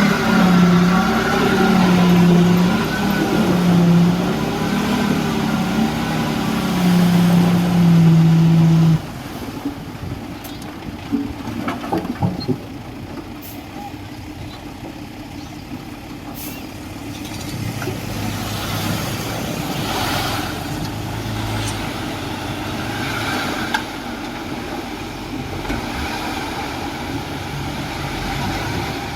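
Heavy diesel construction machine engine working under load, its pitch rising and falling again and again, which stops abruptly about nine seconds in. After that a quieter engine runs on with scattered clanks.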